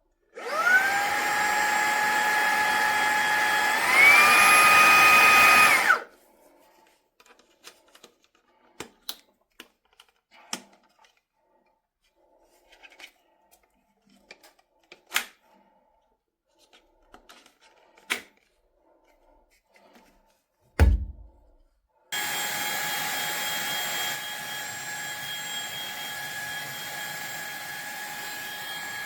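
Fanttik Slim V8 Apex handheld vacuum's motor spinning up with a rising whine and running steadily, stepping up to a higher, louder pitch about four seconds in, then cutting off a couple of seconds later. Next comes a stretch of small clicks and taps with one dull thump. The motor then starts again and runs steadily, a little quieter after a couple of seconds.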